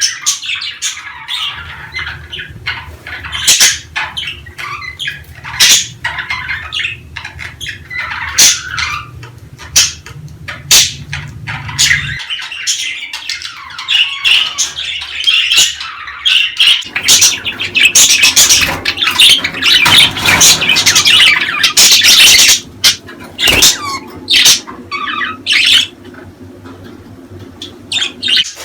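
A flock of budgerigars chattering, chirping and squawking continuously, busiest in the second half: the kind of budgie chatter played to get budgies into breeding condition. A steady low hum runs underneath, breaking off about twelve seconds in and returning some five seconds later.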